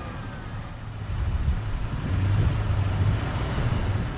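Toyota FJ Cruiser's 4.0 L V6 engine running at low revs as the vehicle crawls up a rutted dirt climb, pulling harder and getting louder about a second in.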